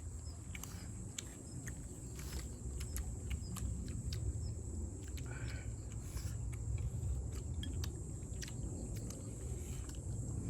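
Eating sounds: chewing, with scattered light clicks and taps, over a steady low rumble.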